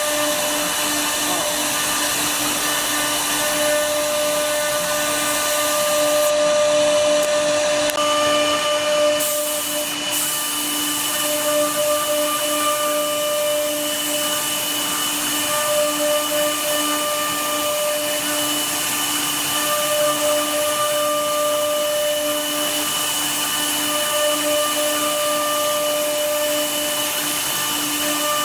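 CNC router spindle cutting wood: a steady high whine over a constant hiss of cutting, the pitch holding even throughout.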